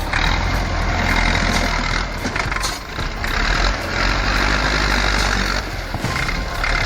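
Tractor engine running with a steady low drone under a loud hiss.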